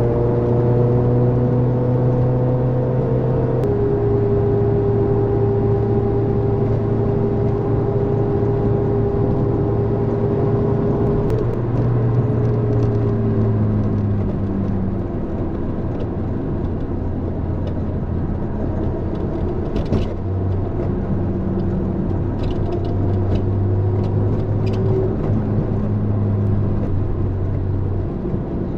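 Toyota AE86's 4A-GE twin-cam inline-four running through a Fujitsubo exhaust while driving. Its pitch steps down about four seconds in, sags lower between about twelve and fourteen seconds, then holds steadier with another small drop near the end. A few faint clicks and rattles come through in the second half.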